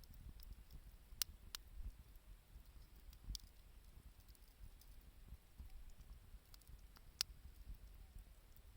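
Campfire burning quietly, with a few sharp pops and crackles from the burning wood over a faint low rumble.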